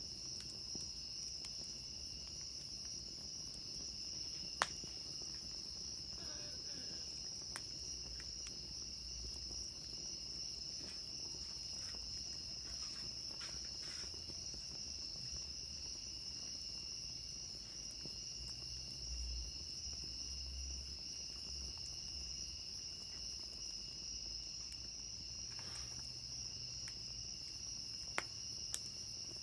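A steady chorus of night insects trilling, with a few sharp pops from a wood campfire: one loud pop about five seconds in and two more near the end.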